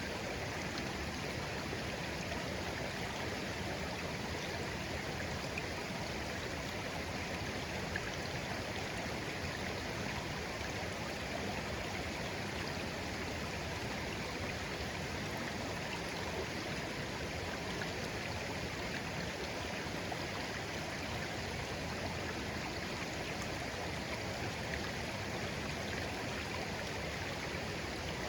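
Shallow, clear stream babbling steadily over stones, with gentle trickling and gurgling.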